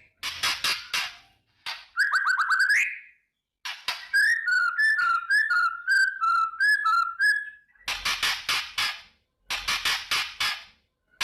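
White-rumped shama (murai batu) calling in rapid, harsh rattling bursts, the 'kretekan' of an agitated, fighting bird. Three rattles alternate with quick sweeping notes and a whistled phrase of up-and-down notes in the middle.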